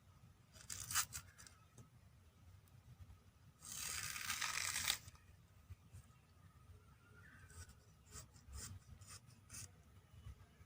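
Kitchen handling noises: a few light clicks, then about a second and a half of rustling tearing in the middle, then more scattered clicks.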